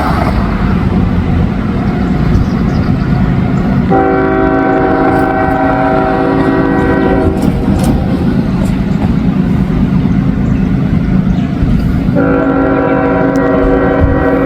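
Train running by with a steady low rumble; the locomotive's horn, several notes sounding together, blows for about three seconds starting about four seconds in, and blows again near the end.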